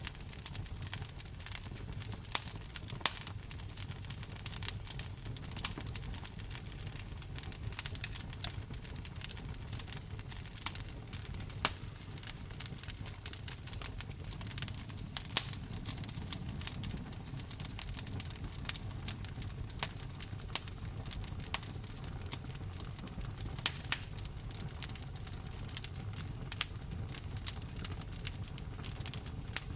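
Wood fire burning in a fireplace: a steady low rumble of flame with constant crackling and frequent sharp pops of burning wood.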